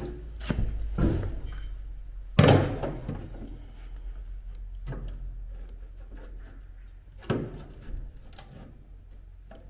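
A string of separate knocks and thuds from objects being handled and set down. The loudest comes about two and a half seconds in and another strong one a little past seven seconds, with lighter knocks between, over a steady low hum.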